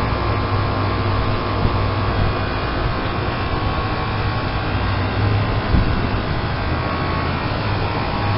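Lennox Elite series heat pump running through a defrost cycle, its compressor giving a steady low hum over an even mechanical noise.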